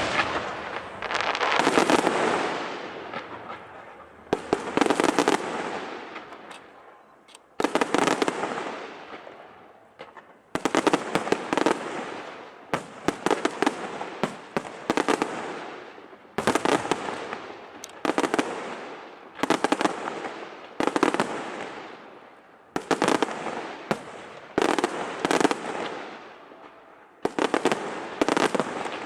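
Aerial fireworks shells bursting overhead in quick clusters, a new salvo about every two seconds, each bang trailing off in a long fading crackle.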